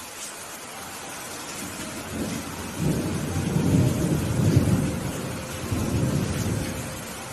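Steady rain falling while a roll of thunder rumbles in about two seconds in, grows loudest in the middle, then dies away near the end.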